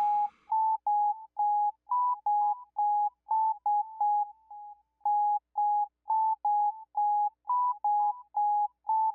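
A simple electronic melody of short, clean beeping notes hopping between a few nearby pitches, about two to three notes a second.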